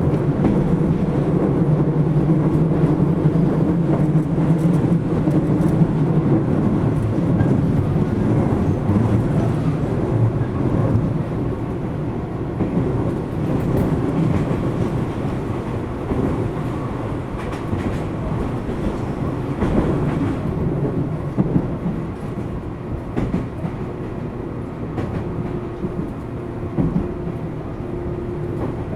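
A Tobu 10000 series electric train running at speed, heard from inside a motor car: a steady hum of traction motors and gearing over the rolling of wheels on rail, with a few sharp clacks over rail joints. The hum is strongest in the first ten seconds and eases off somewhat after that.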